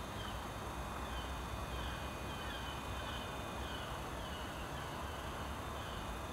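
A small bird chirping repeatedly, short slightly falling notes at a little under two a second, over a steady low background rumble.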